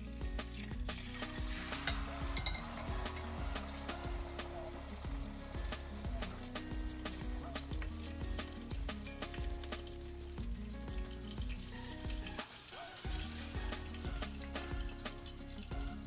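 Beaten egg streaming through a mesh strainer into hot oil in a wok, frying with a steady crackling sizzle as it puffs up.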